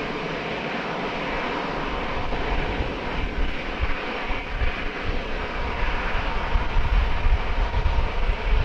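Aircraft engines passing close by on the runway: a steady rushing noise with a faint steady whine, and a low rumble building up in the second half.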